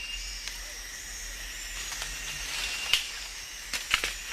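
Tropical rainforest ambience: a steady high insect hiss, with a few sharp clicks or snaps, the loudest near three and four seconds in.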